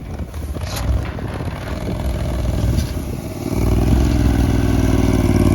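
Argo amphibious ATV engine running, with some rattling early on; about three and a half seconds in it gets abruptly louder and holds there under higher revs.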